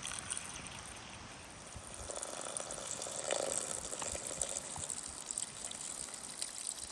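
Kvass being poured in a steady splashing, trickling stream onto chopped okroshka ingredients. The pour grows louder about two seconds in.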